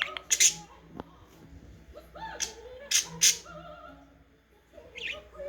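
Budgerigar warbling softly, broken by sharp high chirps about half a second in and again around three seconds in; it goes quiet a little after four seconds, then starts chirping again near the end.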